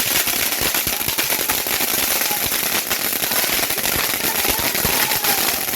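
Fireworks crackling: a dense, unbroken run of rapid small pops over a steady hiss.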